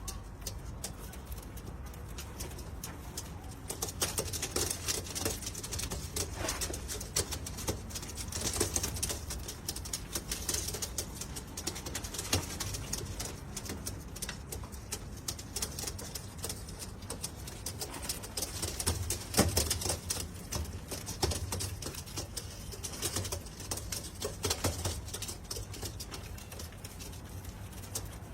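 Domestic pigeons cooing in a loft, with many scattered clicks and rustling over a low steady hum.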